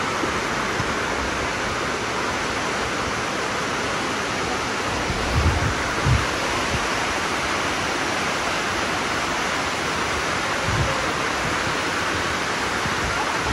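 Dunn's River Falls' water rushing down the rock cascades in a steady, loud rush. A few dull low thumps come about midway and once more later.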